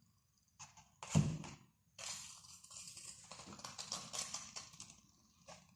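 Experiment things being handled on a tabletop: a single knock about a second in, then a run of light taps and clicks for about three seconds.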